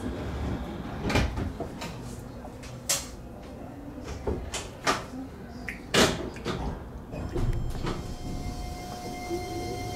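Keihan electric commuter train running, heard from the cab: a low rumble broken by irregular clicks and knocks from the wheels on the track. Near the end a steady electric motor whine comes in, part of it rising in pitch as the train powers up.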